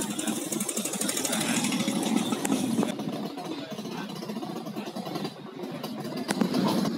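Several motorcycle engines running at once, an uneven mix of idling and light revving.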